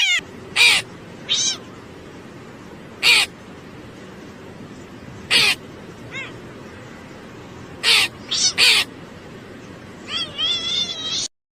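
Cat meowing repeatedly: about ten short, loud meows at uneven intervals, with a quicker run of them near the end, over a steady background hiss.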